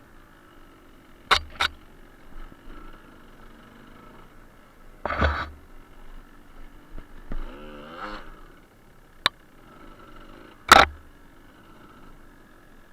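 Suzuki TS125R's two-stroke single-cylinder engine running at low revs on a rough, rocky track, its note rising and falling a couple of times. Several sharp knocks cut through it: a close pair just over a second in, a longer one about five seconds in, a short one about nine seconds in and the loudest about eleven seconds in.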